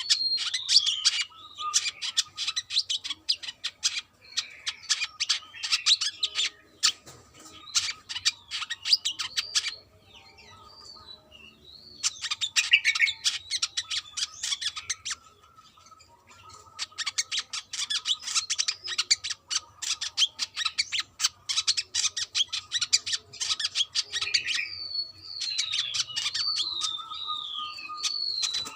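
Brown-throated sunbird singing: a fast, dense chattering twitter of rapid chips mixed with high whistled notes that slide down and up. It comes in long bouts, with brief breaks about ten seconds and fifteen seconds in.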